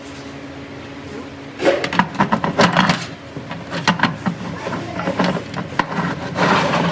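A steady low hum, then from about a second and a half in a loud, irregular run of sharp clicks and knocks, as of hard parts being struck or handled at work.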